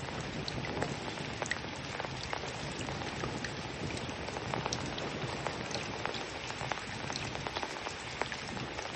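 Steady patter of falling water, like rain on a surface: an even hiss with many small, sharp drop ticks scattered through it.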